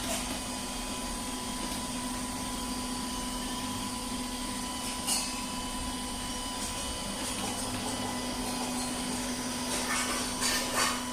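Milagrow Seagull robot vacuum cleaner running with a steady motor hum, with a few short clicks about five seconds in and again near the end.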